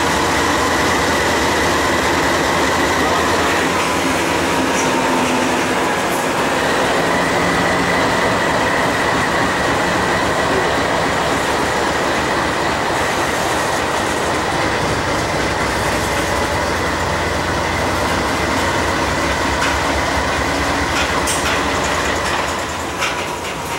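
Norfolk Southern freight train rolling past close by: a GE D9-44CW diesel locomotive goes by at the start, then a string of covered hopper cars with steady wheel rumble and a thin, high wheel squeal. Near the end the wheels click over the rail joints.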